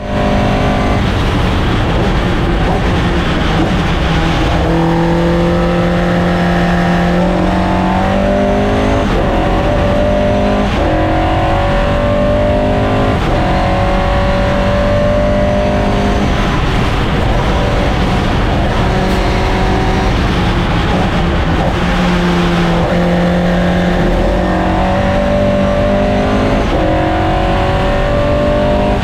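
Race car's Vauxhall C20XE 'red top' 2.0-litre sixteen-valve four-cylinder engine being driven hard on track. The pitch climbs and drops again and again as it revs up through the gears and comes off for corners.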